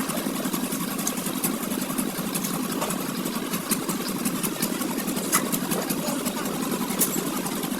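An engine idling steadily, with scattered sharp clicks over it.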